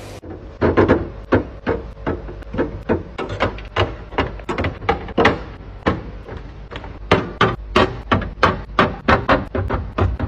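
Items and containers being set down and arranged in a refrigerator: quick, irregular knocks and clatters, several a second, over a steady low hum.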